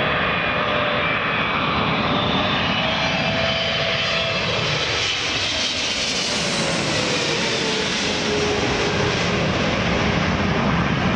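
Airliner on final approach passing close overhead, engine noise swelling in the middle and then falling in pitch as it goes by.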